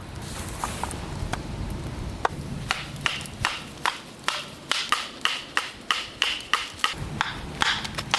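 A quick run of sharp, hollow woody knocks, about two to three a second, from a bamboo tube of coconut sticky rice being struck and cracked open.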